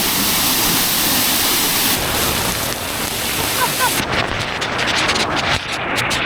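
Waterfall pouring into a pool close by, a loud steady rush of water. About four seconds in, the high hiss drops away and the sound turns rougher and uneven.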